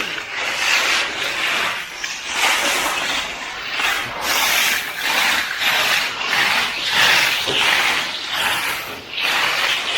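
Hand finishing tool (trowel or float) scraping over fresh, wet concrete in repeated rasping strokes, about one a second.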